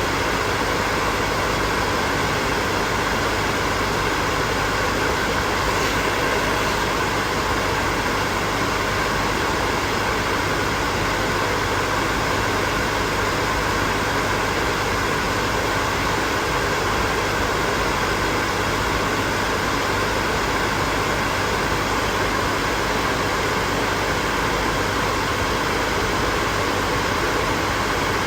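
Hair dryer running steadily: an even rush of air over a constant motor hum.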